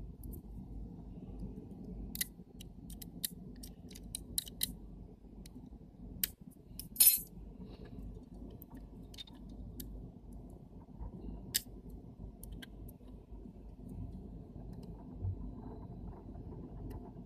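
Small, sharp clicks and taps of camera lens parts being handled and fitted during reassembly, scattered irregularly with a louder clack about seven seconds in, over a steady low hum.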